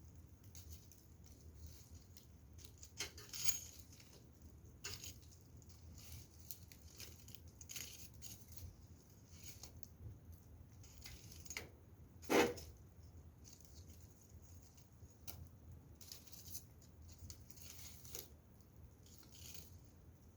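Faint wood fire crackling, with small pops at irregular intervals and one louder pop about twelve seconds in.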